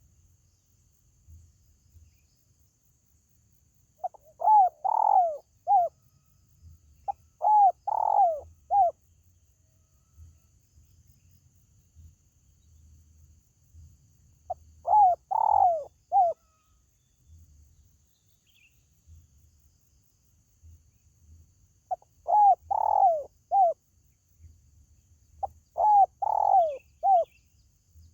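Spotted dove (tekukur) cooing: five phrases of a few short, throaty coo notes each, with pauses of a second to several seconds between phrases.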